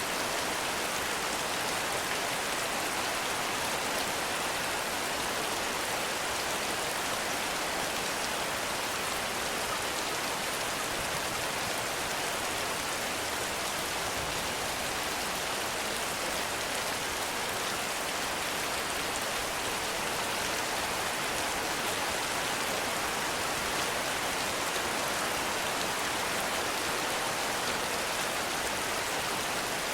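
Heavy rain falling steadily, an even, unbroken hiss of drops with no let-up.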